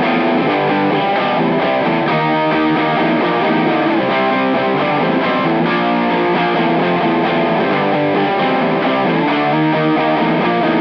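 Electric guitar played through an Olinthus Cicada overdrive pedal, a TS808 Tube Screamer-style circuit, giving a distorted tone. The playing is a continuous run of chords and notes at an even level.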